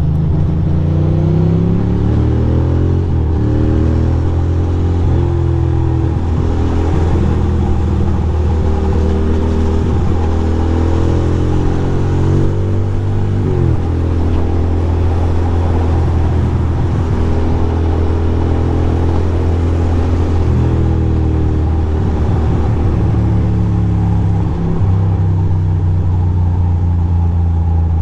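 2006 Ducati Monster 620's air-cooled L-twin engine under way, its revs rising and falling again and again through throttle and gear changes, over a steady hiss.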